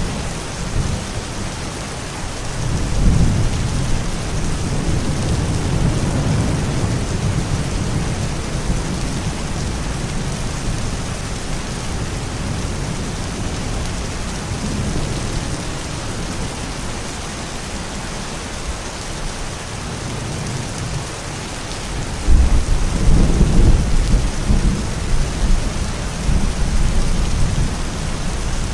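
Thunderstorm: steady rain falling throughout, with rolling thunder that swells early on and a louder, closer crack of thunder about three quarters of the way in, rumbling on to the end.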